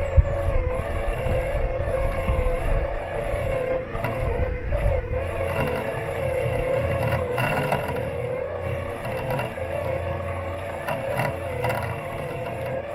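Robot lawn mower running, heard from a camera taped to its body: a steady, slightly wavering electric motor whine over a low rumble, with a few brief knocks and rattles, the loudest about halfway through and late on.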